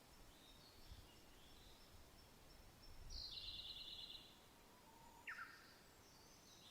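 Wild birds singing faintly over a soft wind: scattered high calls, then a rapid trill of quick repeated notes about three seconds in lasting about a second, and a short falling note a little after five seconds.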